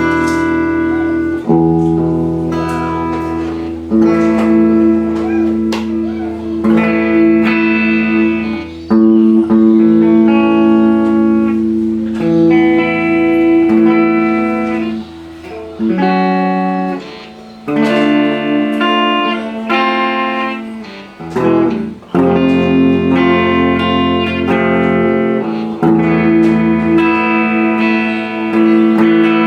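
Electric guitar played through a Marshall MG30DFX combo amp, which has just been repaired and is working. Single notes and chords ring out over held low notes, with brief breaks between phrases.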